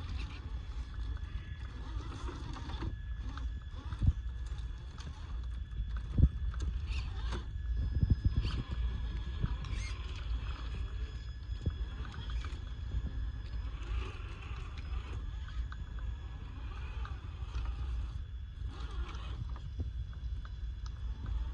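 RC crawler truck driving over wet, rough ground: a faint steady electric-motor whine, with repeated knocks and clatter from the chassis and tires, the loudest about 4, 6 and 8 seconds in.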